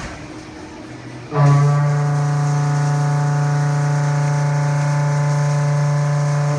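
Haas VF-2SS CNC mill cutting S355 steel: after a quieter moment, the cutter enters the cut about a second in and the cutting sets up a loud, steady humming tone that holds evenly.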